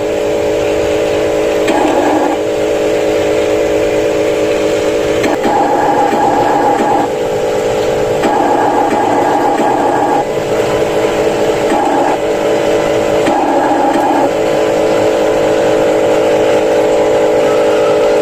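Motors of 1/14-scale RC construction models running, a steady mechanical whine that steps back and forth between a lower and a higher pitch every second or few as the controls are worked.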